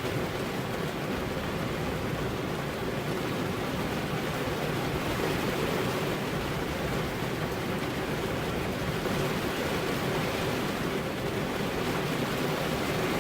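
Steady rain falling, an even hiss with no separate drops or rumbles standing out.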